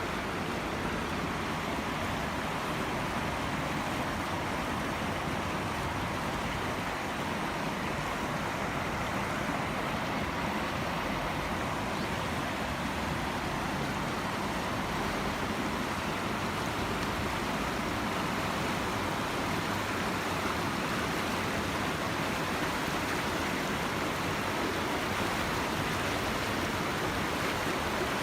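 Steady rushing of falling water from a small waterfall, an even noise without breaks.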